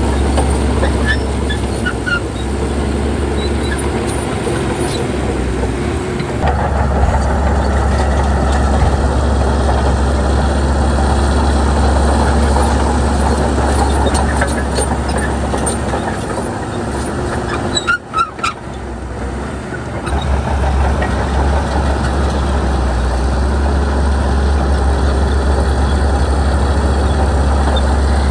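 Shantui crawler bulldozer's diesel engine running steadily while it works. Near the end the engine note drops briefly, with a few sharp squeaks and clicks, then picks up again.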